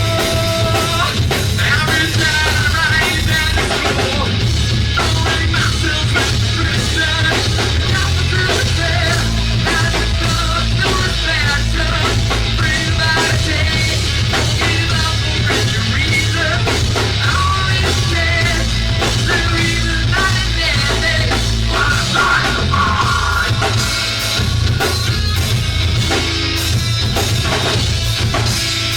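Live rock band playing loudly on a drum kit and amplified instruments, with a singer's voice over the top.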